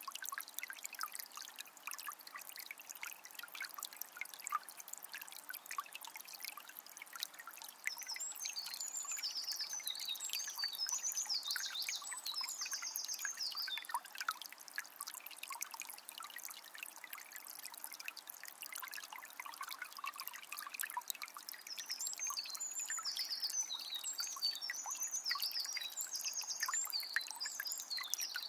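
Shallow forest river trickling and splashing over stones, a steady bubbling flow. A songbird sings quick high phrases over it, once about eight seconds in and again from about twenty seconds in.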